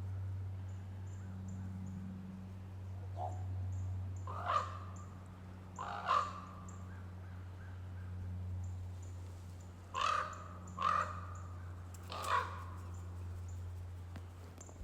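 Common raven calling: about six harsh, separate calls spaced one to a few seconds apart, the loudest clustered around the middle and later part.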